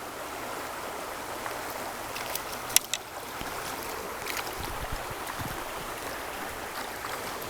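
Shallow river current running steadily, with a few short sharp clicks over it, the loudest just under three seconds in.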